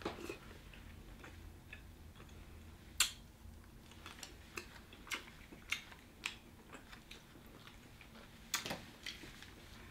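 Quiet eating sounds: scattered wet mouth clicks and smacks while chewing saucy seafood, with a sharper click about three seconds in and a few more near the end.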